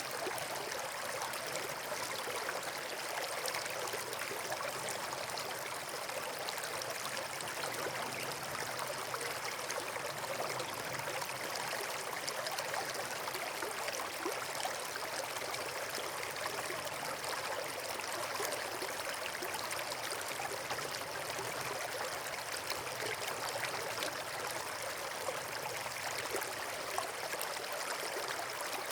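Steady flowing water, like a stream or small waterfall, with a continuous rushing and trickling that stays even throughout.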